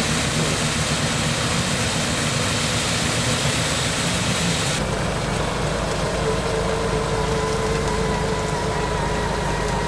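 Off-road vehicle's engine running steadily, with an abrupt change in its sound about five seconds in.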